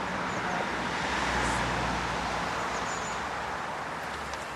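A motor vehicle running, its sound swelling about a second in and fading near the end, with a few short chirps of small birds.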